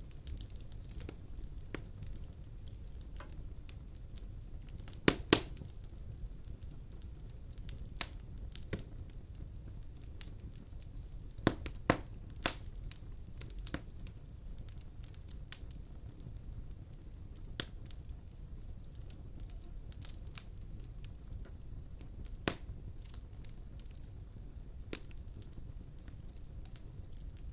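Wood fire burning in a fireplace, crackling with irregular sharp pops over a low steady rumble. A few louder pops come about five, twelve and twenty-two seconds in.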